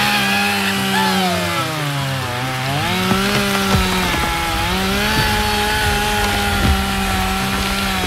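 A motor-like drone of a toy vehicle, steady in pitch but sagging and recovering twice, with light clicks and knocks from about three seconds in.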